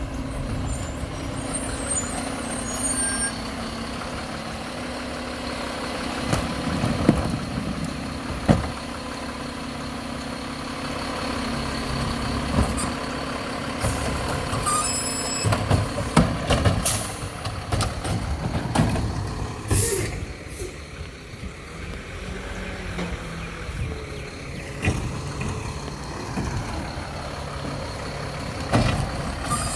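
Mack LEU garbage truck with a McNeilus Meridian body at work: the diesel engine runs steadily under the packing and lifting. A couple of sharp bangs come about a quarter of the way in, and bursts of air-brake hiss come around the middle.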